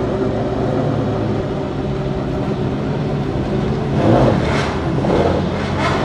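A car engine running steadily, then revved hard in short surges about four seconds in and again near the end.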